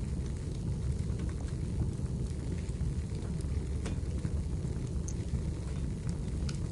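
Wood fire burning in a fireplace: a steady low rumble of flames with scattered small crackles and pops of the burning firewood.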